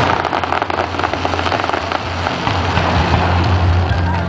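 Fireworks crackling: a dense patter of small sharp pops from a burst of crackling stars, thickest in the first two seconds and thinning after, over a steady low hum.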